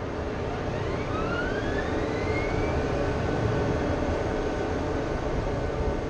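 Steady low engine rumble with a whine that rises in pitch over a couple of seconds, like an aircraft engine.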